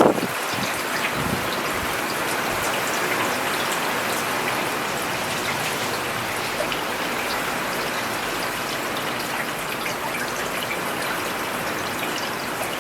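Steady rainfall on a paved urban road, an even hiss with many individual drops ticking throughout.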